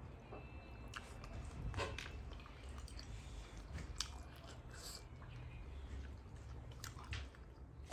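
A person chewing a mouthful of rice and curry with the mouth closed, with soft wet mouth clicks and a few sharper clicks scattered through.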